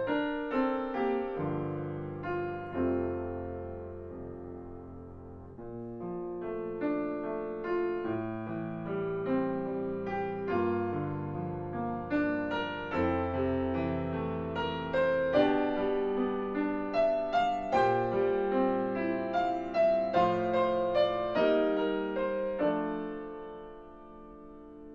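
Solo piano playing a slow, gentle piece of struck chords and melody notes that ring and decay. It grows softer around four seconds in, builds again, and dies away near the end.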